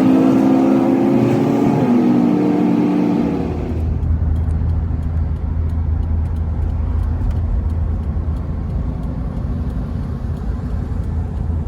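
A van's engine pulling away: its note rises for the first few seconds and steps down about two seconds in. It then settles into a steady low drone as the van drives along.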